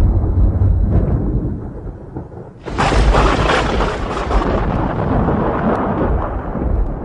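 Thunder: a low rumble dies down, then a sharp thunderclap about two and a half seconds in breaks into a long rolling rumble that slowly fades.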